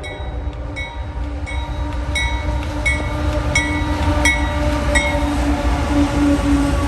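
GE AC44CW diesel locomotive leading a freight train as it comes closer, its low rumble growing louder, with a steady engine tone. A bell rings with evenly spaced dings, about one every 0.7 s, for the first five seconds.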